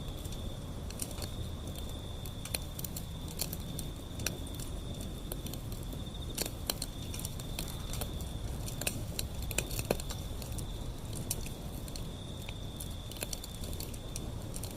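Wood fire burning, crackling with irregular sharp pops and snaps over a low steady rumble of the flames.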